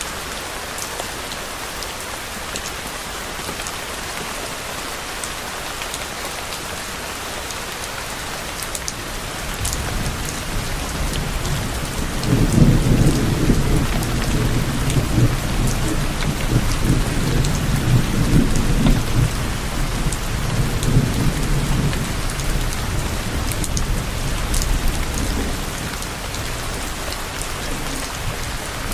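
Steady rain falling, with raindrops pattering on surfaces. About ten seconds in, a low rumble of distant thunder builds, is loudest around the middle, and slowly fades away over the following fifteen seconds or so.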